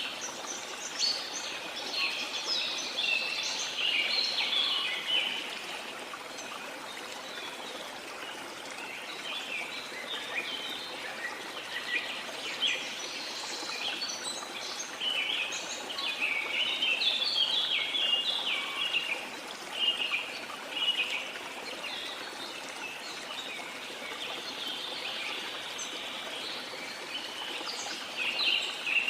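Many birds chirping and singing over the steady rush of flowing water. The chirping comes in busy spells, at the start, through the middle and again near the end.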